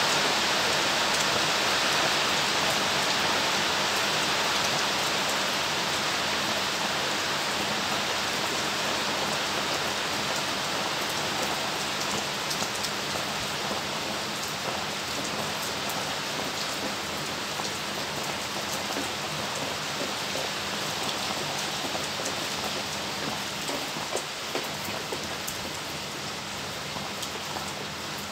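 Steady rain falling, with scattered sharper drop hits, slowly growing quieter.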